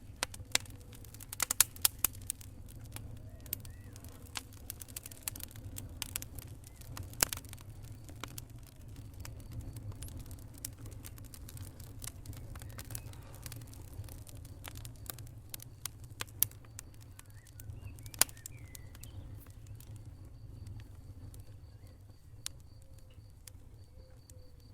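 Wood fire in a fireplace crackling: sharp pops and snaps come thick in the first several seconds, then sparser, over a steady low rumble of the flames.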